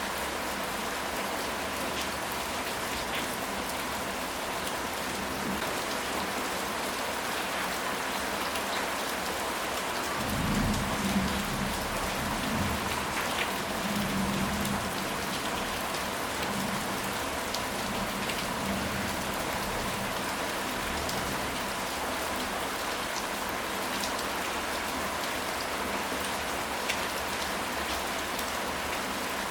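Steady rain falling on a surface, with individual drops ticking. About ten seconds in, a low rumble of thunder swells and fades over several seconds.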